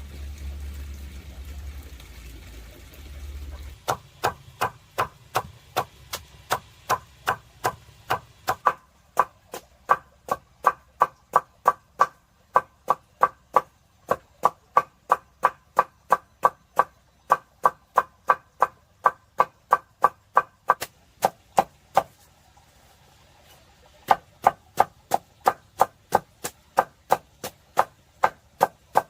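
Rapid, evenly spaced strikes of a tool on wood, about three a second, each with a short ringing knock. A low rumble comes first; the strikes begin about four seconds in and pause briefly near the end.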